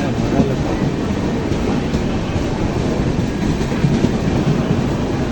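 Train noise: a steady rumble with clatter.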